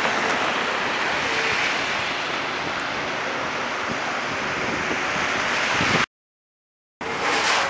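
Steady rushing of blizzard wind. It cuts out completely about six seconds in and comes back a second later.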